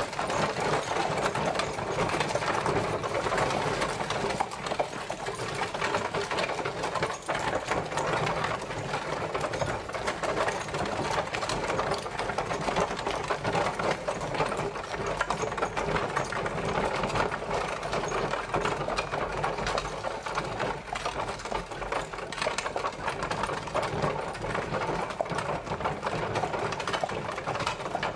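Horse-drawn carriage travelling: a steady, dense rattle and clatter of its wheels and body, going on without a break.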